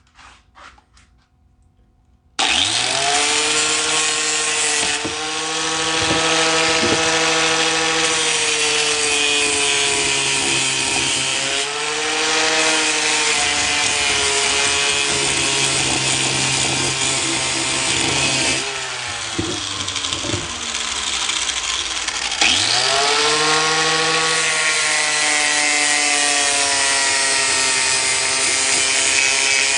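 Electric angle grinder spinning up and grinding the cracked metal of a tractor's three-point mount. Its motor pitch sags and recovers as it is pressed into the work. It stops about two-thirds of the way through, then spins up again for a second pass.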